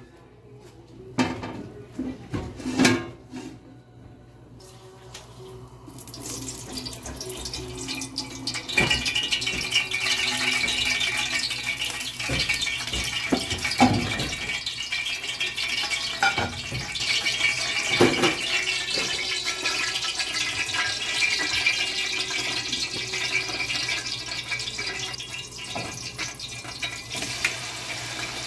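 A few knocks of a utensil on a cooking pot, then, about six seconds in, a steady sizzling hiss of food frying in the pot builds up and carries on, with occasional knocks of stirring.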